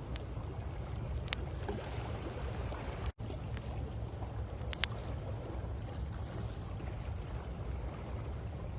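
Wood campfire crackling with a few sharp pops over a steady low wash of ocean waves. The sound cuts out for an instant about three seconds in.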